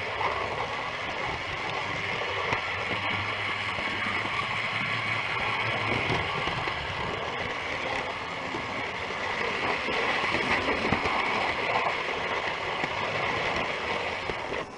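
Model railway locomotive running on its track: a steady whirring of the small electric motor with the rumble of wheels on rail, swelling slightly about two-thirds of the way through.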